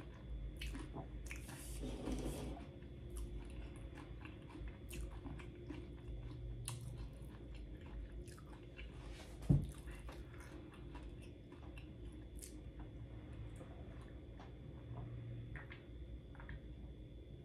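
Close-miked chewing of a mouthful of loaded nachos, with small wet mouth clicks and crunches. A single low thump sounds about halfway through.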